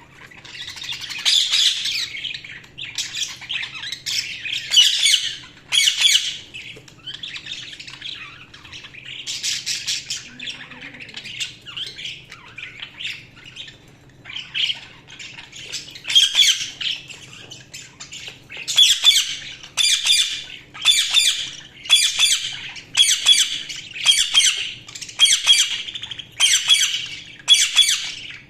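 Budgies (budgerigars) chirping and squawking. In the last third the calls become a regular series of sharp squawks about one a second.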